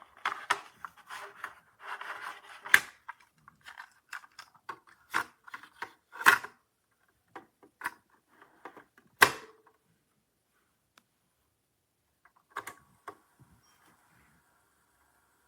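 Plastic clicks and clunks of a portable boombox's cassette deck and buttons being worked: a series of sharp clicks over the first several seconds, then a few more. Near the end a faint steady hum comes in as the tape begins to play.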